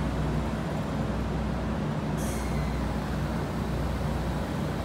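Electric multiple-unit train standing at the platform, humming steadily, with a brief high hiss about two seconds in.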